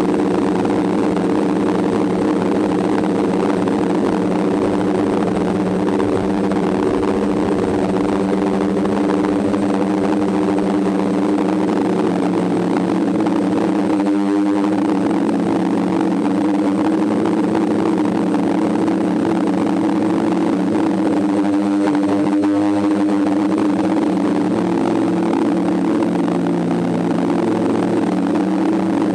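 DJI F550 hexacopter's motors and propellers in flight: a steady multi-pitched hum, with brief wavering shifts in pitch about halfway through and again about three-quarters through.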